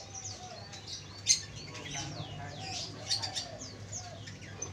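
Small birds chirping and twittering in quick high notes, one sharper and louder about a second and a half in, with soft low arched coos of a spotted dove underneath.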